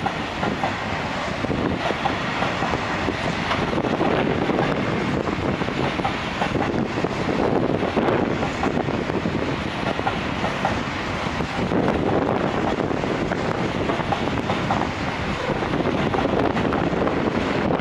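Freight train of EWS bogie hopper wagons rolling past, a steady rumble and clatter of steel wheels on the rails.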